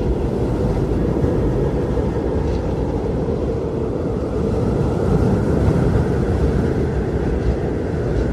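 Strong wind blowing in a steady, deep rush that swells a little about halfway through.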